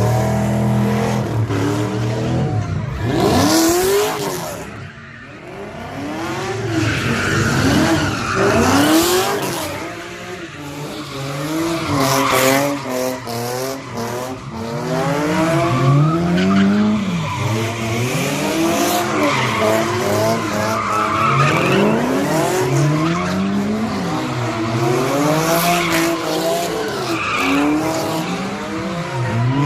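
A car engine revving up and down again and again, its pitch rising and falling every second or two, over a steady screech of spinning tyres: a car doing burnouts or donuts.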